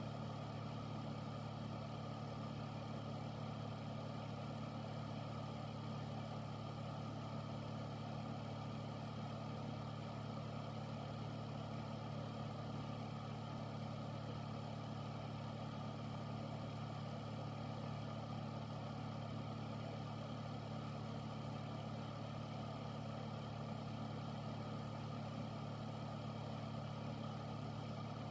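Air filter's fan running steadily: a low, even hum under a constant rush of moving air.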